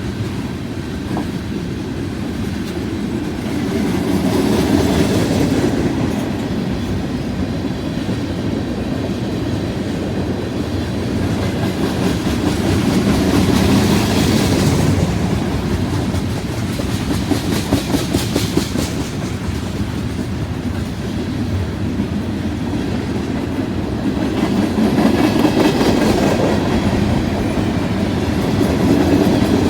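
Freight train cars rolling past at speed: a steady rolling rumble with the clickety-clack of steel wheels over rail joints, swelling louder every several seconds and with a run of sharp clacks a little past the middle.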